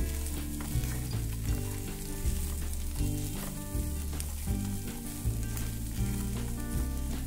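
Diced potatoes with crushed peanuts and coconut sizzling in a pan on low heat while being stirred with a silicone spatula, over background music.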